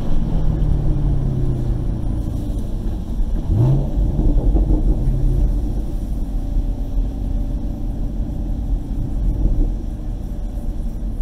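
Car engine at low revs with heavy road and wind rumble as the car slows and coasts. The engine note falls over the first couple of seconds, rises briefly about three and a half seconds in, then runs steadily at low revs.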